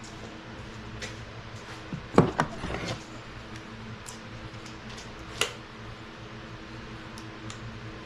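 Metal clanks of tools and engine parts being handled during the teardown of a Chevy 350 V8. A quick cluster of clanks comes about two seconds in and a single sharp clink at about five and a half seconds, over a steady low hum.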